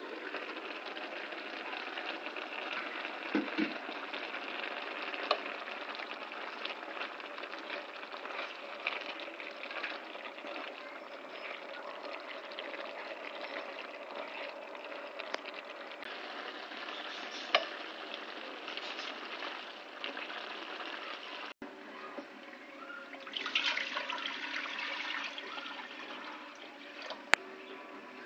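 Chicken skins frying in a pan: a steady sizzle with scattered sharp pops. About 21 seconds in, the sizzle cuts off abruptly and a quieter background follows.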